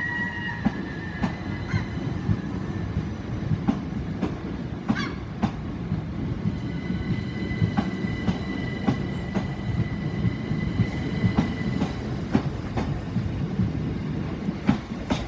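Southern Class 377 Electrostar electric multiple unit moving off, a steady low rumble with its wheels clicking irregularly over the track. A faint high steady whine comes and goes, strongest about halfway through.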